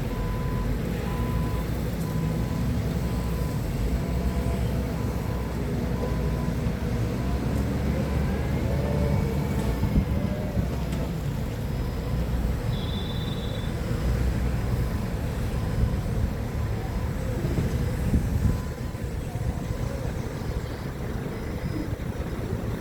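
Forklift's engine running steadily with a low rumble. A short tone beeps at an even rate for the first several seconds, and the engine pitch rises and falls for a few seconds around the middle.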